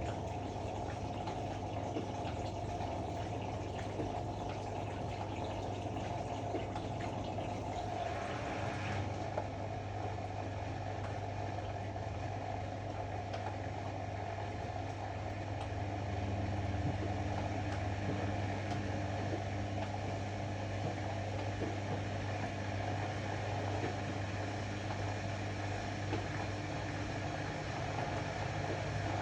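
Ariston AML125 washer-dryer running with a steady hum. A hissing water fill stops about 9 seconds in, and about 16 seconds in the machine's hum gets a little louder, with new steady tones.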